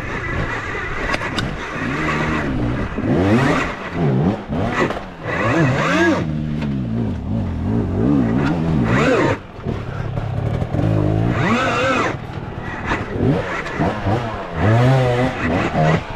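Dirt bike engine revving hard over and over, its pitch climbing and dropping every second or two as the rider blips the throttle.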